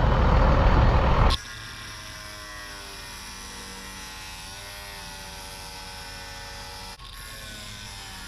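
Power tool cutting through steel combine sickle sections, loud and harsh, stopping abruptly about a second and a half in. A quieter steady machine hum with a slowly wavering pitch follows.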